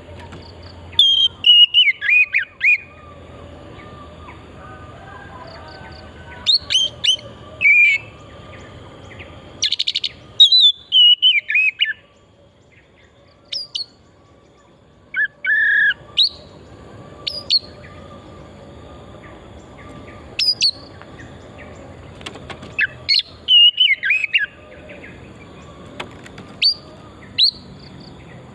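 Oriental magpie-robin (kacer) singing: short, high whistled and chirped phrases with quick rising and falling notes, separated by pauses of a second or more, over a faint steady background hiss. It is a wild forest bird in full, prolific song.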